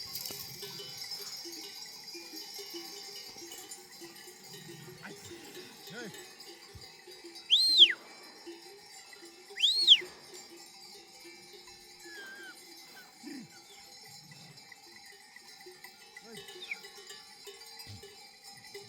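Bells on a grazing flock of sheep clanking and tinkling steadily as the animals move. Two loud, short whistles, each rising then falling, cut through about eight and ten seconds in.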